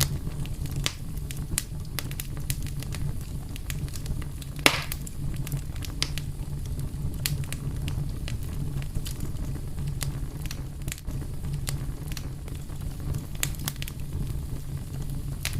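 Wood fire burning steadily, with a low rumble of flames and frequent sharp crackles and pops, one louder pop about five seconds in.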